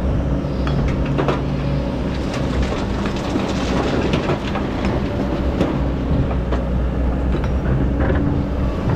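Excavator's diesel engine running steadily under load, with repeated knocks and scraping from the bucket working through hard-packed sand.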